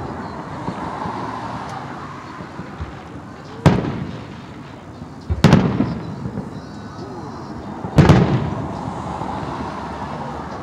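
Aerial firework shells bursting, three loud booms a couple of seconds apart, each trailing off slowly.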